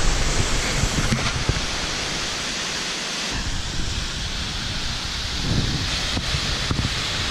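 Steady rush of a waterfall's falling water, with wind rumbling on the microphone.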